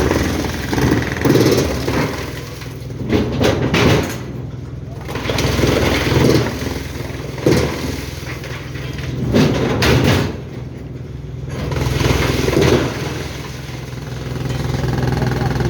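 Large engine of heavy machinery running steadily, with louder rough surges every second or two and two short lulls, as of a machine working under changing load.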